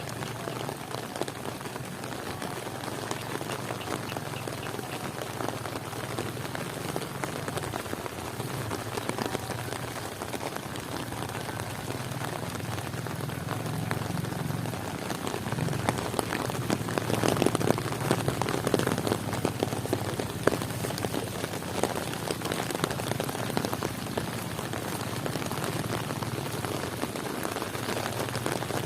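Heavy rain falling, a steady hiss full of drop patter that grows louder and denser for a few seconds past the middle.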